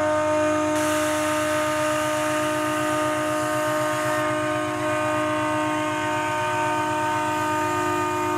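Train horn sounding one long unbroken blast, a chord of several steady tones.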